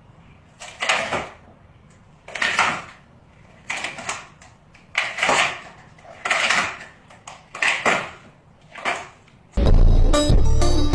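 A bird screaming in harsh, raspy screeches, about seven of them a second or more apart. Near the end, loud music with whistle-like tones comes in.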